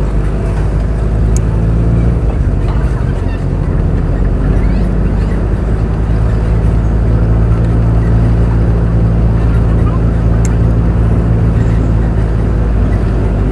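Truck engine running steadily while driving, a low drone whose pitch shifts a little about two to three seconds in and then holds. A couple of faint clicks sound over it.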